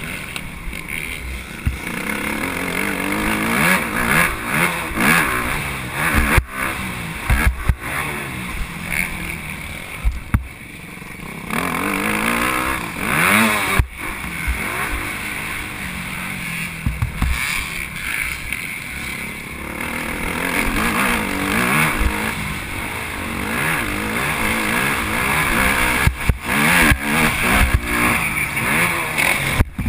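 Motocross bike engine revving hard and repeatedly rising and falling in pitch as the rider accelerates, shifts and backs off around the track, with a few brief sharp dropouts in the sound.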